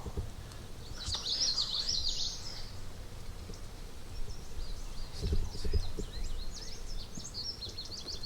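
Small songbirds chirping and singing in high, quick notes: a burst about a second in and a run of rapid chirps through the second half. Low rumbling from wind or handling noise on the microphone runs underneath, loudest a little past the middle.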